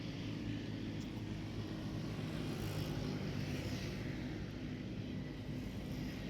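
A steady low engine drone, with no sudden sounds standing out.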